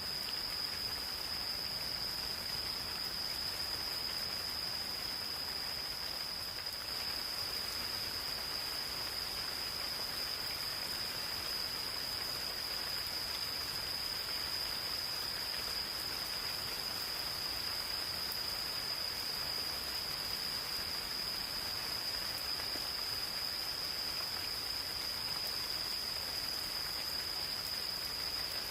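Gentle rain falling steadily in a forest, pattering on leaves and surfaces, with a continuous high-pitched insect chorus ringing over it.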